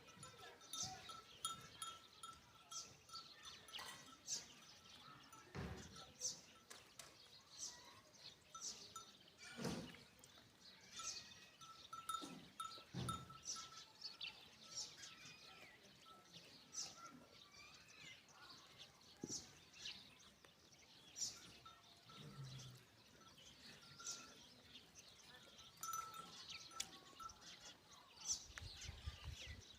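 Faint tinkling of livestock bells, with scattered short, high clinks throughout and occasional animal calls.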